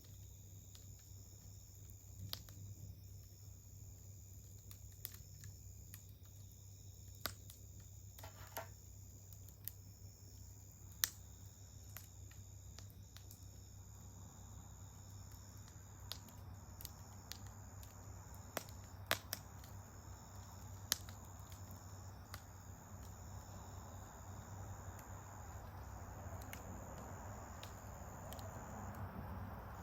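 Wood campfire crackling, with sharp irregular pops every second or two. Underneath runs a steady high insect trill, and a soft rushing noise grows from about halfway.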